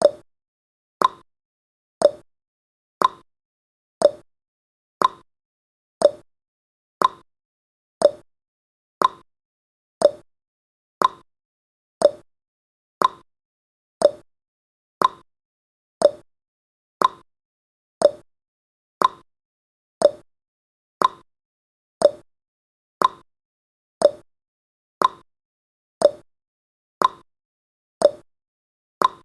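Countdown timer's ticking sound effect: one short, sharp tick every second, alternating between a lower and a higher tick like a clock's tick-tock, each tick marking a second counted down.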